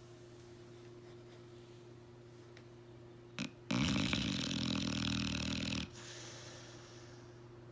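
Blue nose pit bull snoring: one loud snore about two seconds long midway through, just after a brief short sound. A faint steady hum lies underneath.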